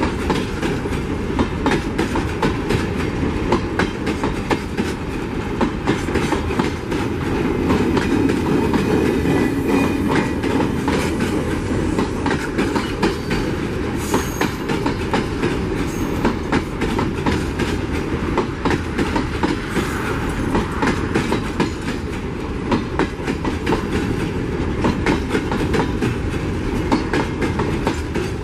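Freight train of empty mineral hopper wagons rolling past, with a steady rattle and many wheel clicks and knocks over the rail joints.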